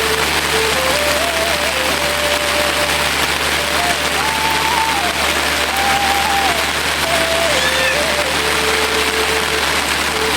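Heavy rain falling steadily in a dense, even hiss, with a slow background melody of single held notes stepping up and down over it.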